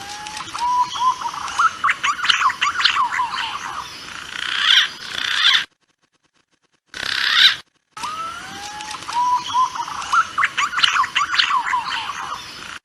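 Recorded call of punai (green pigeons) played as a hunting lure: a few rising whistles lead into a burst of warbling, twittering notes. The same sequence plays twice, with a stretch of dead silence between, as on a looped recording.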